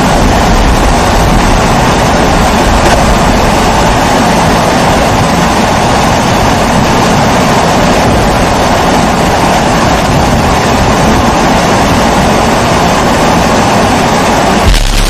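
Kerosene pressure stove (babour, a Primus-type burner) burning with a loud, steady rushing hiss.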